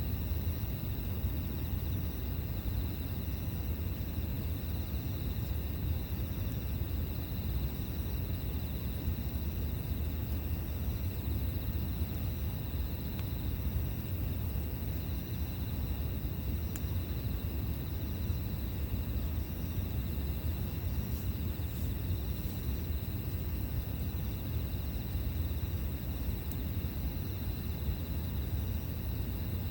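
Campfire burning with a steady low rumble and a few faint pops, while insects trill steadily in the background.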